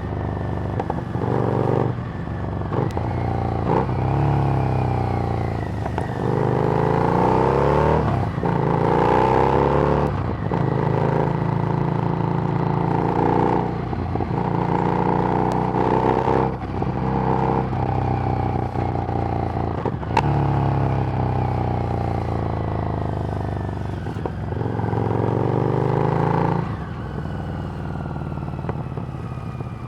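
Harley-Davidson Street Rod's 750 cc liquid-cooled V-twin running through a Screamin' Eagle exhaust while being ridden: the engine note repeatedly climbs with the throttle, breaks off at each gear change and settles back, several times over.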